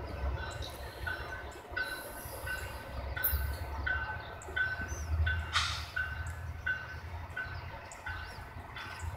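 Freight train of refrigerated boxcars rumbling on the rails as it rolls away, with a short high tone repeating about twice a second over it.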